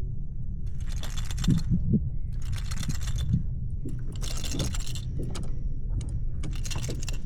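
Kayak paddle strokes in the water: four swishing, splashing strokes, one about every second and a half, over a constant low rumble.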